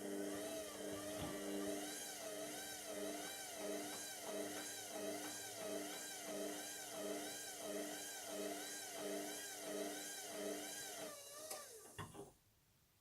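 Indesit washing machine drum motor turning the drum at low speed, its whine rising and falling in pitch about once a second over a steady hum, as the machine tries to balance a lone bath mat before spinning. Near the end it winds down and stops.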